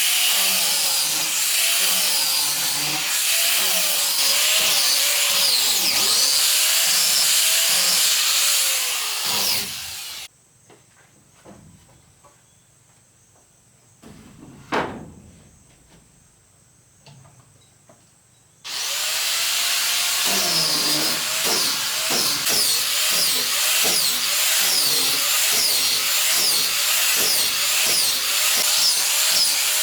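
Electric power tool working wood, its motor pitch dipping again and again as it bites under load. It stops about a third of the way in, with one sharp knock in the lull, and starts up again some eight seconds later.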